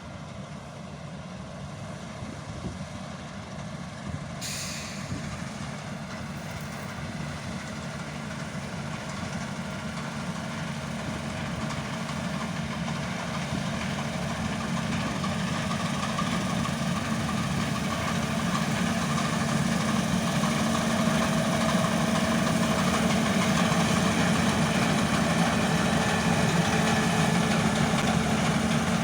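Heavy diesel farm machine engine running steadily and growing gradually louder, with a brief hiss about four and a half seconds in.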